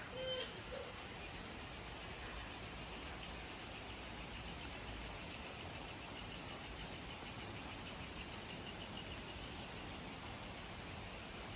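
Steady hiss of rain with insects chirping in a fast, regular, high-pitched pulse.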